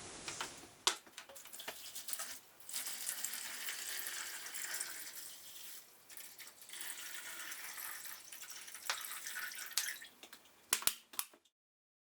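Water running in two spells of about three seconds each, with scattered small clicks and knocks. A few sharper knocks come near the end before the sound cuts off.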